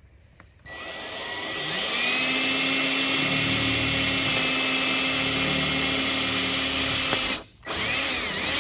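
Power drill running. It starts about a second in, spins up to a steady whine, cuts out briefly near the end and starts again.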